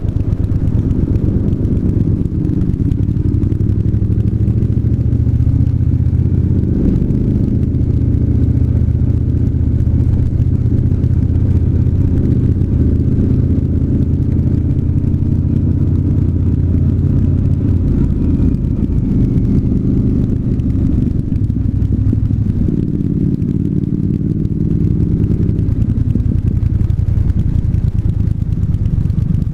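Triumph 1200 parallel-twin motorcycle engine running on the move, its pitch rising and falling several times with throttle and gear changes, over a steady low rumble of wind and road noise.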